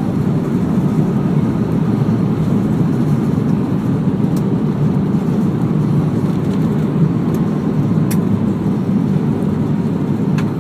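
Steady cabin rumble inside an Airbus A319 taxiing after landing, its engines at low thrust.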